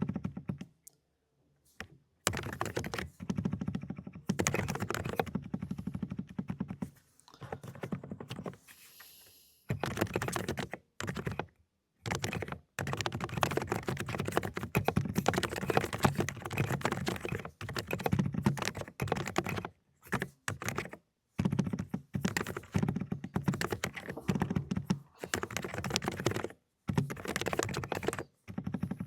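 Fast typing on a Dokgeomi (Aula) mechanical keyboard with low-noise 'cotton candy' switches: rapid, muted keystrokes in quick runs, broken now and then by short pauses.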